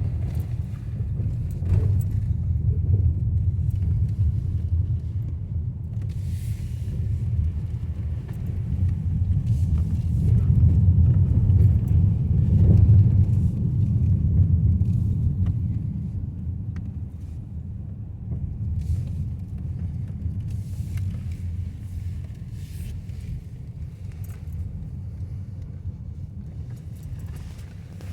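Steady low rumble of a car's engine and tyres heard from inside the cabin while driving, swelling louder about ten seconds in and easing off a few seconds later.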